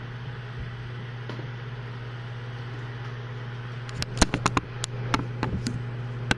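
Steady low mechanical hum, with a rapid run of sharp clicks and knocks starting about four seconds in, as of hard objects being handled.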